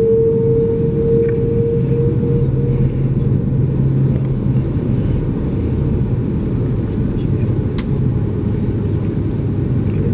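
Steady low rumble of an Airbus A330-300 jet airliner, with a steady hum that fades out about two and a half seconds in.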